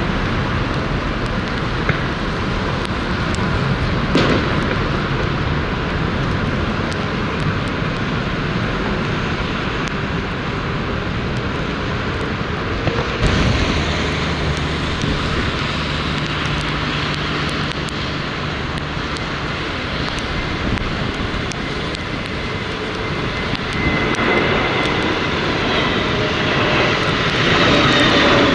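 Jet airliner coming in to land: a steady rush of engine noise that grows louder in the last few seconds, as whining engine tones come in and slide down in pitch. Strong wind buffets the microphone underneath.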